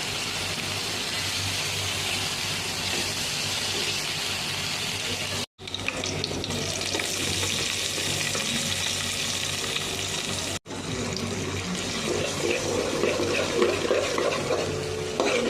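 Food sizzling steadily in a hot pan, broken off abruptly twice where the clips cut, with louder, uneven sounds near the end.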